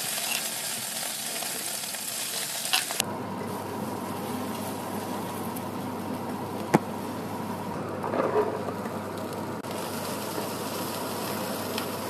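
Food frying in oil in a wok: pounded chilli paste and then egg sizzling while a spatula stirs. The sizzle turns lower and fuller about three seconds in, and there is a single sharp tap about seven seconds in.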